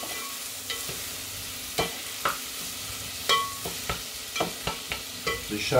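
Refogado of onion, garlic, tomato and pepper frying with a steady sizzle in a cast-iron pot, while a wooden spoon stirs it, scraping and knocking against the pot at irregular moments.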